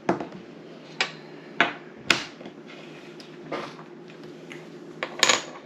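A series of short, sharp clicks and taps of small hard objects on a table, about six of them, irregularly spaced, over a steady low hum.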